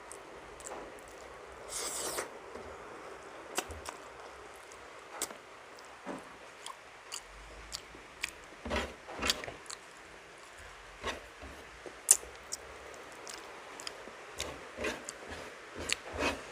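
Close-up eating sounds of a person chewing paksiw na bangus (vinegar-stewed milkfish): wet mouth smacks and clicks, one or two a second, with a louder smack about twelve seconds in.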